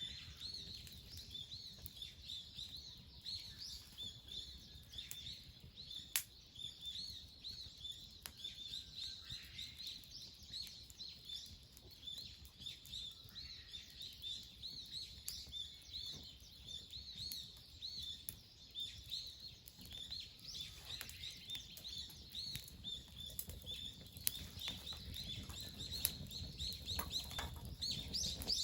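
Small birds chirping rapidly and without a break, several short high calls a second, with a few sharp clicks here and there.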